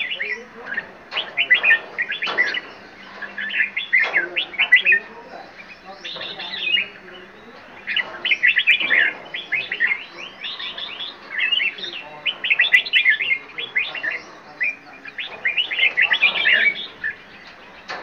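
Several aviary birds chirping and calling over one another in quick, busy bursts of short chirps, a new flurry every second or two.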